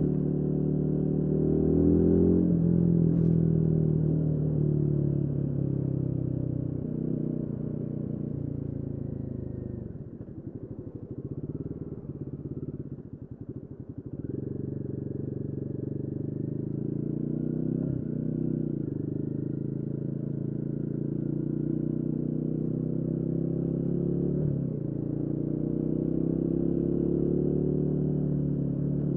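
Royal Enfield Guerrilla 450's single-cylinder engine running under way, its pitch rising and dropping back several times as the revs change. It quietens for a few seconds around ten seconds in, then picks up again and runs steadily.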